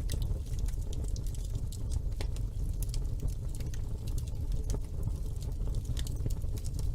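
Wood fire burning in a fireplace: a low steady rumble of flame with frequent irregular sharp crackles and pops.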